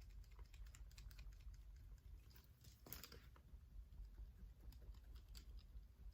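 Near silence with faint, irregular light clicks and taps over a low hum, and a brief soft rustle about three seconds in.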